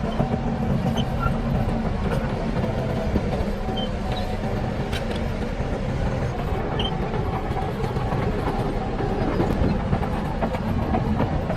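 Bulldozer's diesel engine running steadily under load, with scattered light metallic clicks and squeaks from the crawler tracks.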